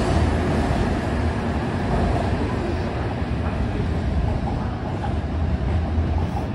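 N700-series Shinkansen train running past along the platform and pulling away: a loud, steady running noise with a low rumble.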